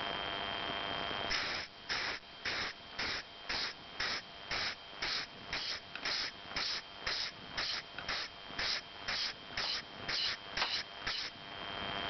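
Steam hissing from a homemade galvanized-pipe steam boiler, at first a steady hiss with a thin whistle in it. About a second in it breaks into rhythmic puffs, about two a second, then returns to a steady hiss near the end.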